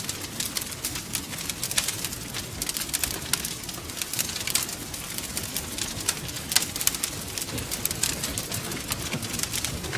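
Wood fire crackling and popping steadily, with many sharp snaps over a low rumble of the burning logs.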